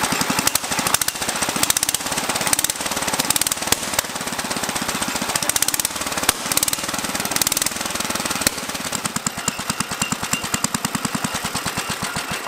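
Small single-cylinder air-cooled engine of a homemade garden tractor running with a rapid, even firing beat that slows in the last few seconds as it is being shut off; it keeps running on, not wanting to stop.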